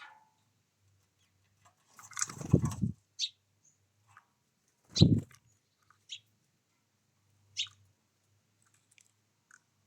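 Wild birds: brief high chirps every second or so, with two louder fluttering wingbeat sounds, one about two seconds in lasting nearly a second and a shorter one about five seconds in.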